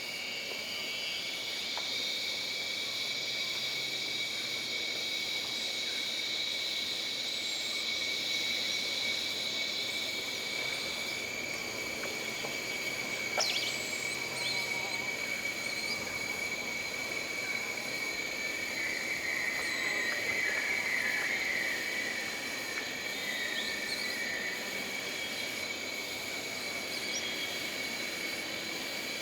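Jungle insect chorus: a steady high-pitched insect drone throughout, with a higher buzzing layer for roughly the first ten seconds and a trilling call from about eighteen to twenty-two seconds in. A single sharp click about thirteen seconds in.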